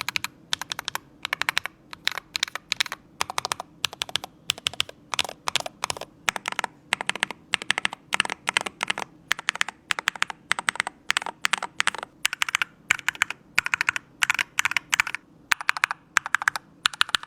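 Typing sound test of a magnetic-switch keyboard fitted with Titan Nation Miami magnetic switches, which have POM stems and factory lube. Quick, uneven runs of crisp key strokes with short pauses between them.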